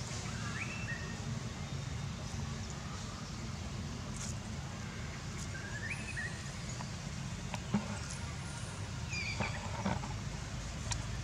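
Short, high chirping animal calls, three brief groups a few seconds apart, over a steady low background rumble, with a few sharp clicks.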